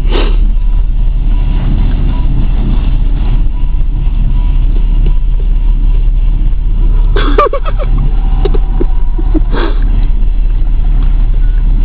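Steady low rumble of an idling vehicle engine, with two short pitched cries about seven and nine and a half seconds in.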